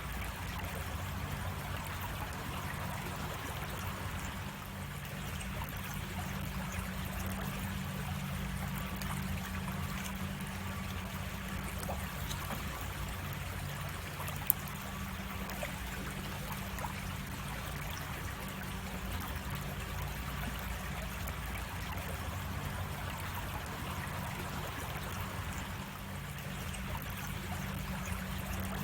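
Creek water flowing in a steady, even rush, with one sharp click about halfway through.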